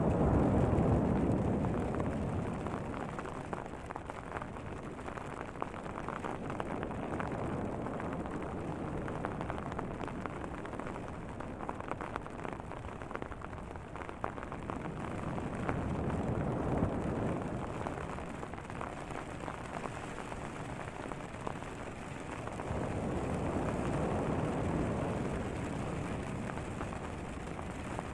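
Light hail and rain pattering on a tent, many small ticks over a steady hiss, with deep ocean waves rumbling underneath. The waves swell and fall back in slow surges, loudest at the start, about halfway through and again near the end.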